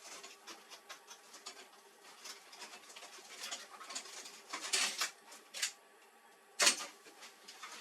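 Irregular light clicks and rustles of parts being handled during work on a laser printer, with a sharper single click near the end.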